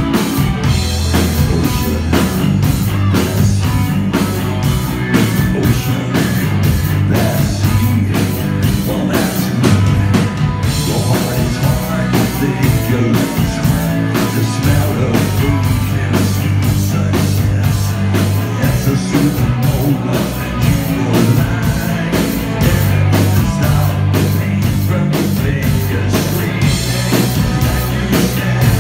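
Live rock band playing a song, with a steady drum beat over held bass notes.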